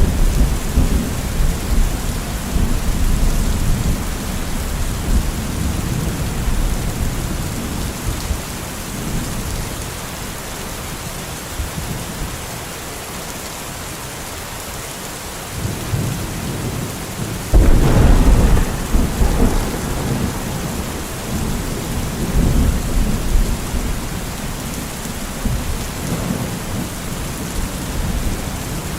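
Steady rain with rolling thunder. A loud thunderclap breaks in about 18 seconds in and rumbles away, with lighter rumbles near the start and in the last third.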